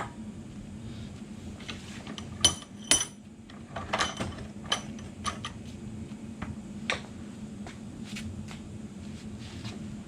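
Scattered metal clinks and knocks of tools and steel U-joint parts striking each other during driveshaft universal-joint work. The loudest few are sharp and ringing, bunched in the middle, over a steady low hum.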